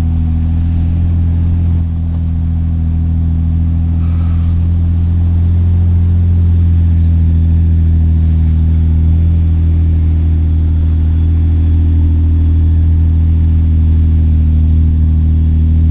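Off-road vehicle's engine running steadily under load while climbing a snowy trail. Its low drone dips briefly about two seconds in, then grows a little louder and holds.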